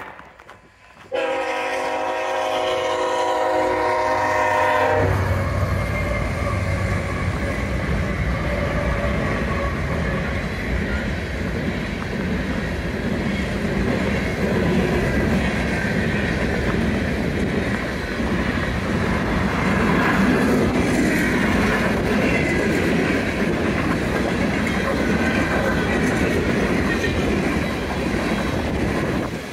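Diesel freight locomotive's multi-chime air horn sounding one blast of about four seconds, then the freight train rolling past with a heavy rumble and wheels clattering over the rail joints.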